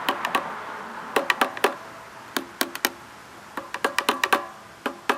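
Light metal taps on the metal of cut-open spin-on oil filters, struck in quick groups of three or four, knocking to compare how thick the metal is.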